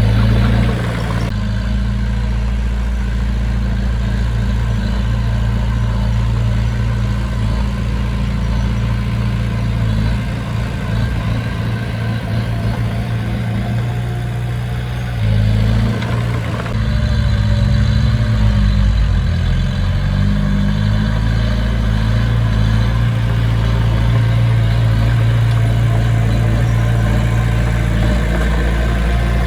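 Heavy diesel engine of a construction machine running steadily at low revs. Its note wavers and drops off somewhat about ten seconds in, then picks up again about fifteen seconds in.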